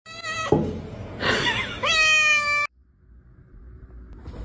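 Domestic cat meowing in long, drawn-out calls that bend in pitch, cut off abruptly about two-thirds of the way in, followed by faint background noise.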